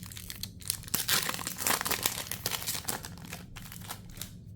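Pokémon trading card mini booster pack wrappers crinkling and tearing in the hands, densest and loudest over the first three seconds, then lighter rustling.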